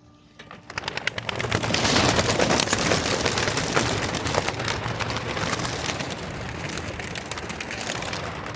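A large flock of homing pigeons taking off together at release: a loud clatter of wing claps and flapping starts about a second in and peaks soon after. It then eases off gradually as the birds fly away.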